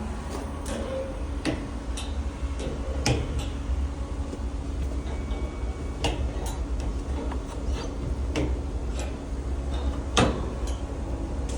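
Irregular metallic clicks, clinks and knocks of tools and parts being handled while the heat pump's seized fan motors are swapped out, with the loudest knock near the end. A steady low rumble sits underneath.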